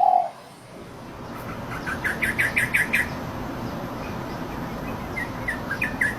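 A small songbird chirping: a quick run of about six rising notes about two seconds in, then more scattered chirps near the end, over a steady low background hum.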